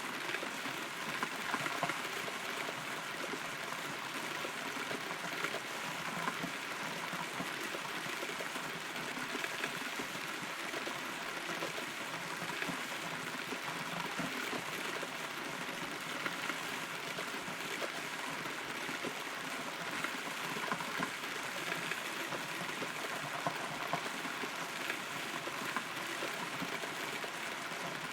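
Rain heard from inside a hollow rotten tree: a steady hiss of rainfall with scattered drops tapping and dripping.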